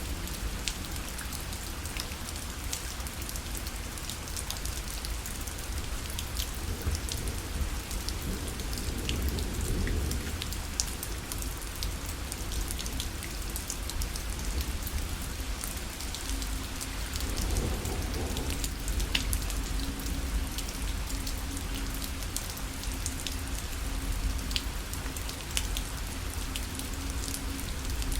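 Rain falling on a fabric parasol: a steady patter with many separate drops ticking on the canopy.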